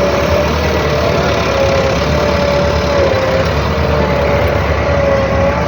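Tractor's diesel engine running steadily at about idle, with a wavering whine riding over the low engine note.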